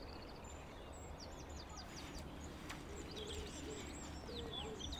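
Small birds chirping and singing in quick, high, falling notes, with lower sliding calls joining in the second half, over a steady low background rumble.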